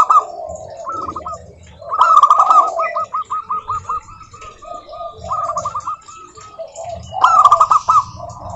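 Zebra doves singing: rapid, staccato strings of short cooing notes, repeated in several phrases, one long run of about a dozen notes in the middle and shorter bursts around it.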